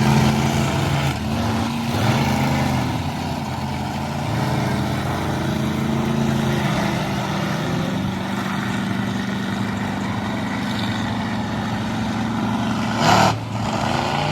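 Monster truck engines running in an arena, a steady deep drone that shifts in pitch in the first few seconds and then holds. A short, loud burst comes about 13 seconds in.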